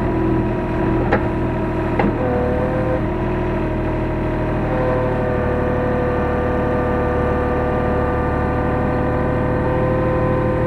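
Hyundai R35Z-9A mini excavator's diesel engine running steadily with a whining tone that drops out for a moment and comes back, heard from inside the cab. Two sharp clicks about one and two seconds in.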